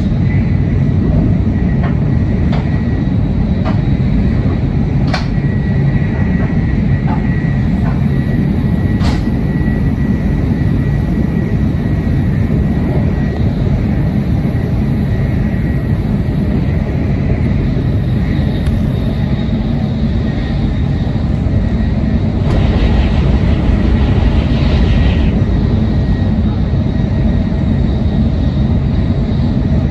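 Cabin noise of an N700S Tokaido Shinkansen train running at speed, heard inside the passenger car: a steady low rumble from the wheels and running gear. A few sharp clicks come in the first ten seconds, and a louder stretch of about three seconds comes past the middle.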